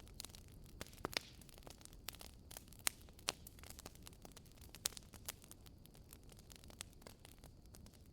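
Wood fire burning in a fireplace, crackling with irregular sharp snaps and a few louder pops over a low, steady rumble of the flames.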